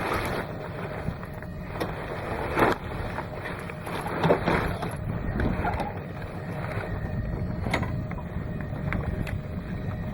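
Steady wind and water noise aboard a small sailboat under way, with a few scattered knocks and clicks.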